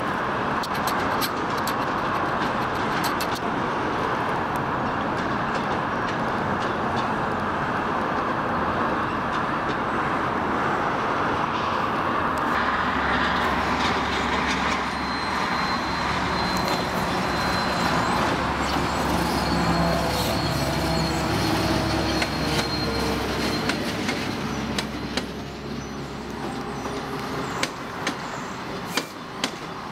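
Commuter trains on the tracks. The first part is the steady rumble of a passing train. About 12 seconds in it changes abruptly to the deep, steady rumble of a diesel locomotive, with a faint high squeal from the wheels. Bilevel passenger coaches then roll by, their wheels clacking sharply over rail joints near the end.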